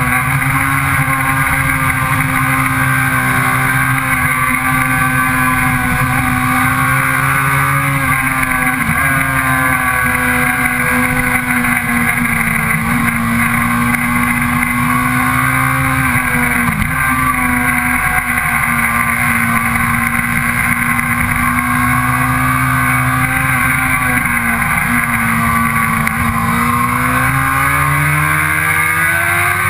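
Sport bike engine running hard at speed on a race track, heard from on the bike, with wind rush. The engine note stays mostly steady, dips briefly a few times and climbs near the end.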